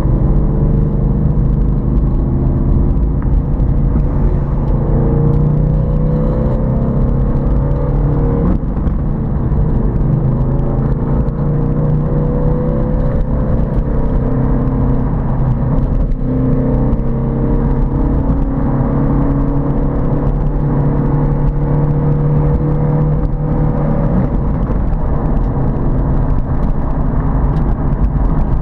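Ford Mustang Boss 302's V8 engine pulling steadily under load on a race track, its pitch climbing slowly in long stretches. It breaks sharply about eight seconds in and changes again near the end, as with gear changes or lifts.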